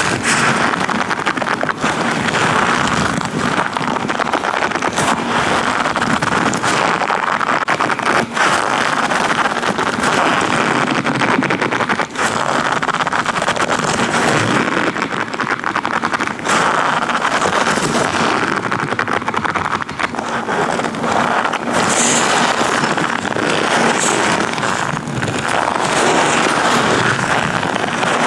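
Latex-gloved hands rubbing and gripping right on a microphone: a dense, continuous rustling with many small snaps and clicks.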